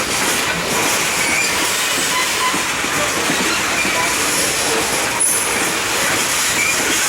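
Freight train cars rolling past on the rails, giving a steady rumble and rattle of wheels with short wheel squeals scattered through it, one high-pitched about five seconds in.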